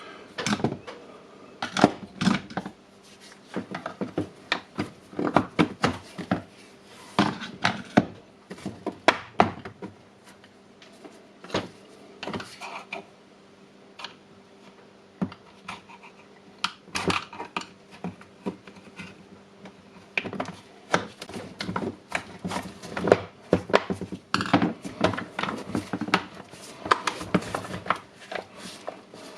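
Irregular clicks, knocks and light rattles as the parts and housing of a Bosch 18V rotary hammer drill are handled and fitted together during disassembly and reassembly. The sounds come in clusters, with a quieter spell about halfway through.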